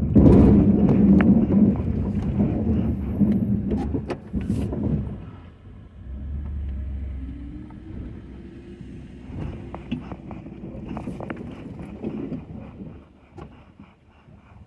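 Ford F-250 pickup running, loudest over the first five seconds with scattered knocks and clatter, then dropping to a quieter steady hum.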